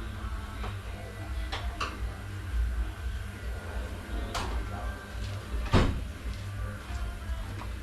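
A few sharp knocks and clanks from transmission parts and tools being handled, the loudest about six seconds in, over background music with a steady bass.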